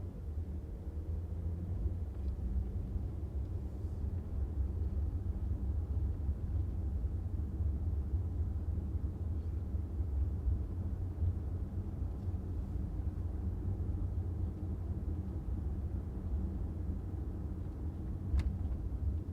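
Car driving along a city street: a steady low rumble of engine and tyre noise, with one sharp click near the end.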